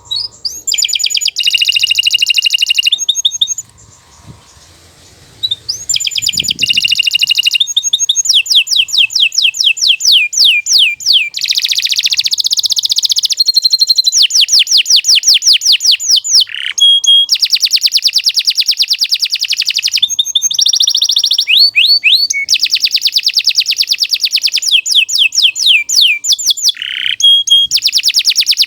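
Domestic canary singing a long, loud song of fast trills and rolls made of rapidly repeated high notes. It breaks off for about two seconds around four seconds in, then carries on with only brief pauses between phrases.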